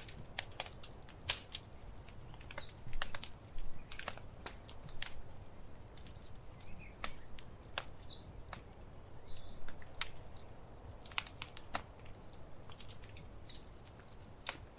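Wood fire crackling: irregular sharp pops and snaps of burning logs, some louder than others, over a faint low rumble.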